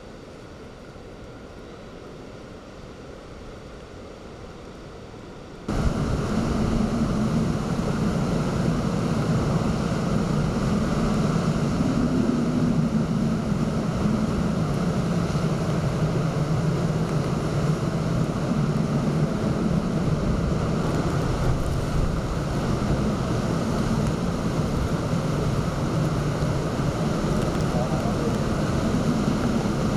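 Typhoon wind and storm surf: a steady noise that jumps suddenly to a much louder, dense rush about six seconds in, with heavy low wind rumble on the microphone.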